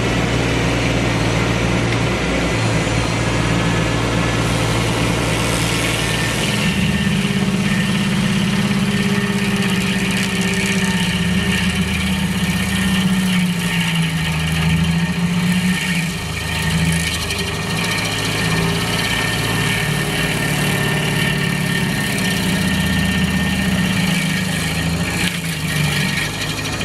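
Heavy machinery engine running steadily, its low note shifting up and down several times from about seven seconds in as the load changes.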